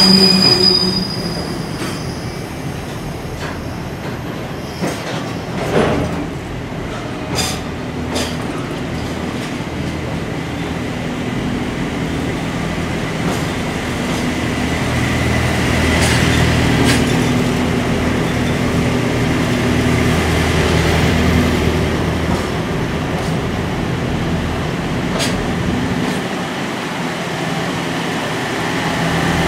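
Container flatcars of a Japanese freight train rolling past at a station platform: a steady rumble of wheels on rail, with sharp clacks as wheels cross rail joints now and then and a faint wheel squeal around the middle.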